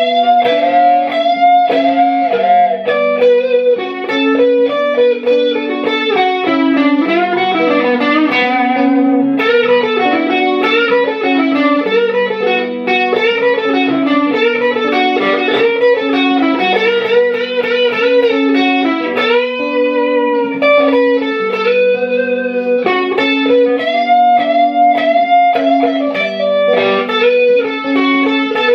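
Harley Benton ST-62 Strat-style electric guitar playing a melodic lead line with frequent string bends, over lower sustained notes.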